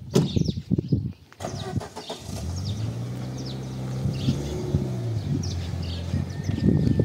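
A car door thumps shut, then a Peugeot 405's engine starts and runs at a steady idle, with a slight rise about four seconds in. Near the end a gritty crunch builds as the car starts rolling over the dirt. Birds chirp throughout.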